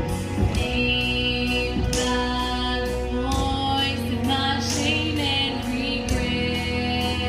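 A song: a female voice singing long held notes over guitar accompaniment.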